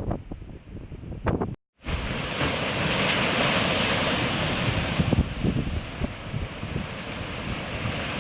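Ocean surf breaking and washing, with wind buffeting the microphone. The sound cuts out briefly about a second and a half in, then returns as a loud, steady hiss of surf.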